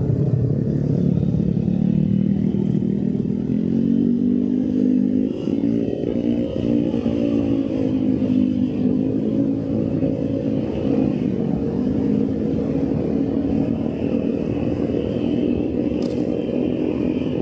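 Motorcycle engine running while riding, its pitch dipping and climbing a few times as the throttle and gears change, over a steady rumble of road and wind noise.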